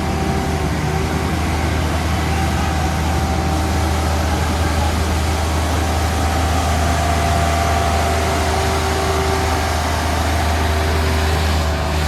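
Heavy truck engine running steadily with a deep, even drone.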